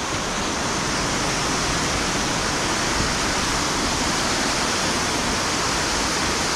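Steady, loud rush of a waterfall in spate, swollen by heavy rain.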